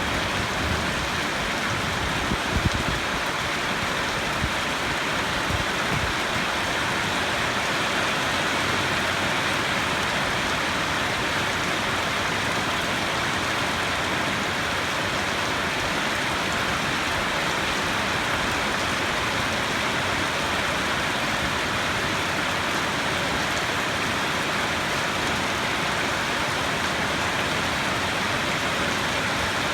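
Steady, heavy rain falling as an even hiss. A low rumble of thunder dies away over the first few seconds.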